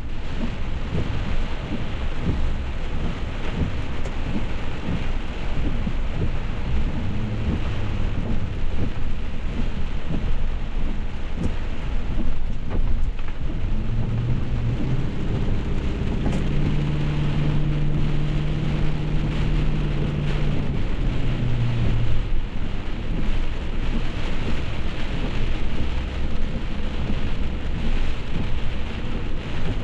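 Heavy rain, steady and loud over a continuous low rumble. About halfway through, a low hum that steps up in pitch comes in and lasts some seven seconds.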